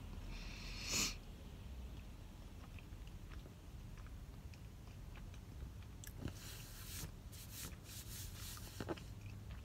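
A person chewing Dunkin' Munchkins donut holes, with quiet mouth sounds and small clicks. A short hiss comes about a second in, and a cluster of brief noisy sounds between about six and nine seconds.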